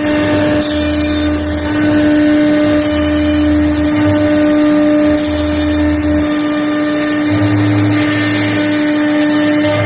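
CNC router spindle running with a steady high whine while the bit cuts into a wooden panel, its high hiss swelling and fading as the tool moves.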